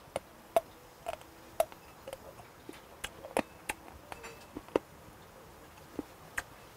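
A man chewing raw sea squirt (meongge) close to a lapel microphone: short, sharp wet mouth clicks at irregular intervals, about one or two a second.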